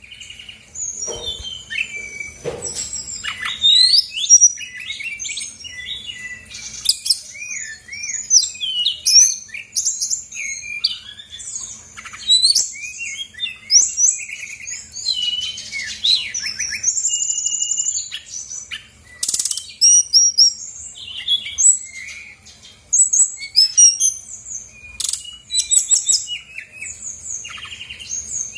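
Brown-chested jungle flycatcher (sikatan rimba dada coklat) singing a rapid, varied string of high chirps, slurred whistles and short trills, with hardly a pause, over a faint low hum. It is the kind of lively song kept as a lure recording to provoke other birds into answering.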